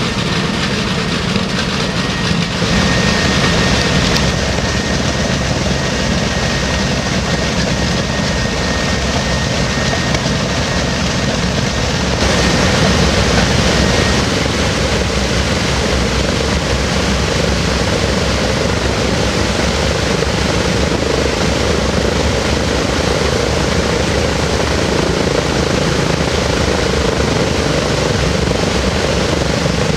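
Lockheed Constellation's Wright R-3350 radial piston engines and propellers running on the ground during a maintenance run-up: a steady, loud propeller drone that grows a little louder about twelve seconds in.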